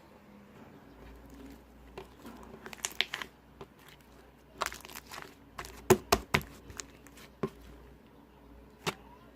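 Slime being squished and poked by hand, giving irregular sharp pops and crackles in clusters, the loudest a few seconds past the middle.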